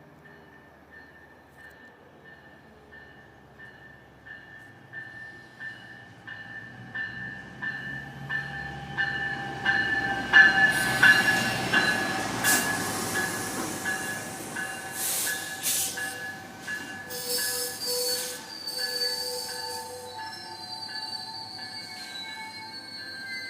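A train approaches, growing louder, while a bell rings at an even rhythm. From about ten seconds in, the train's wheels and brakes squeal and screech as it comes into the station.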